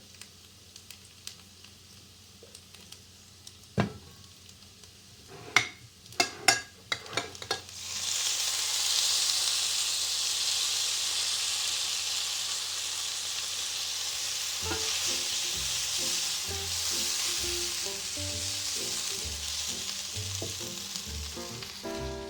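A few sharp clicks and knocks, then a steady hiss from about eight seconds in. Soft music comes in around the middle.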